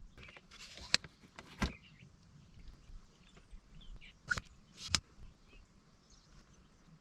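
A few scattered light clicks and knocks from handling a hand-operated oil-sampling suction pump, its tubing and sample bottle while an engine oil sample is drawn.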